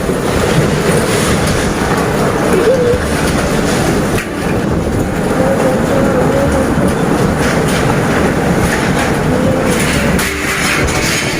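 Heavy rain and strong storm wind of a whirlwind, a loud, steady rushing noise.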